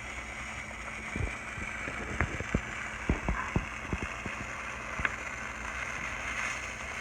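Chicken marsala sauce simmering in an overfull small frying pan: a steady sizzle with irregular pops of bursting bubbles, the sauce bubbling over the pan's edge.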